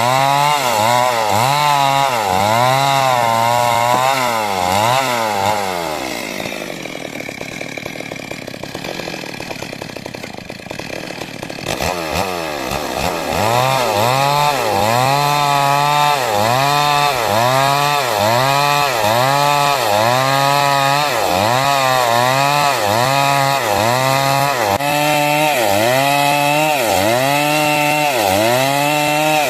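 Two-stroke '382' chainsaw cutting wood, its engine speed rising and falling about once a second as the chain works through the cut. About six seconds in it drops back to a lower, quieter idle for several seconds, then is throttled up and resumes the same rhythmic rise and fall.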